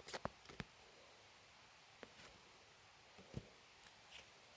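Near silence, broken by a few faint clicks of oracle cards being handled: several close together at the start, then single ones about two and three seconds in.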